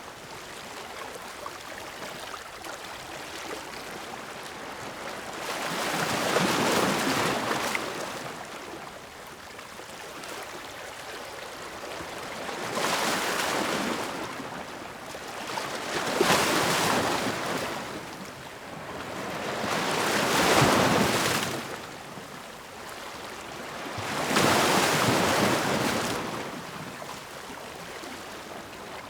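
Ocean waves breaking on the shore: a steady wash of surf that swells five times into louder breaking waves several seconds apart, then ebbs.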